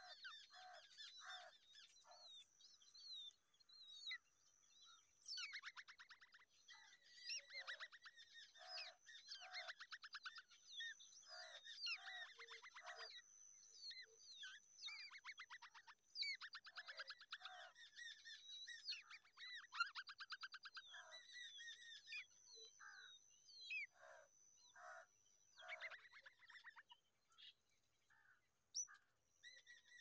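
Faint chirping and calling of small birds: many short notes and bouts of fast buzzy trills, over a thin steady high tone that stops near the end.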